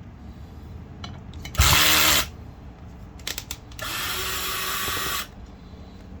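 Cordless drill/driver with an 8 mm socket backing out the bolts on a septic aerator pump's cover, in two short runs. The first run, about a second and a half in, is the loudest. A few clicks follow, then a longer run of about a second and a half from about four seconds in.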